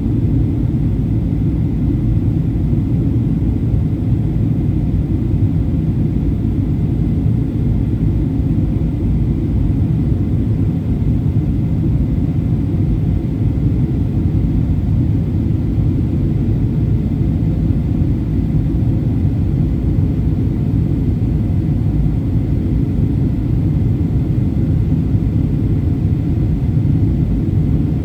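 Steady cabin rumble of a Boeing 737-800 in flight, heard from inside the cabin: airflow and CFM56-7B engine noise, deep and unchanging, with faint steady tones above it.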